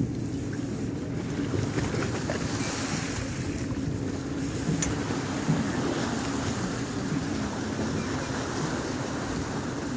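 Steady wind and water noise aboard a boat at sea, with a low, even engine hum underneath and wind buffeting the microphone.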